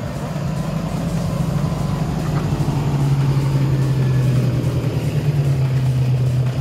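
A four-wheel-drive ute's engine running at low speed as it crawls along a dirt track and passes close by, getting louder over the first few seconds.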